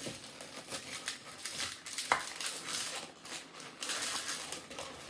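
Latex modelling balloon being twisted and handled: crinkly rubbing squeaks of rubber on rubber and on hands, with one short sharp squeak about two seconds in.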